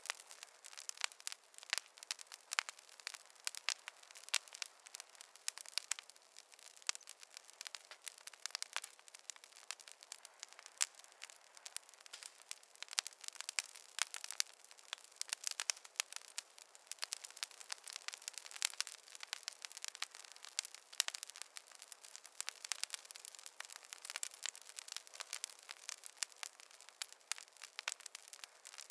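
Wood fire crackling, a dense, irregular stream of sharp pops and snaps from burning logs over a faint hiss.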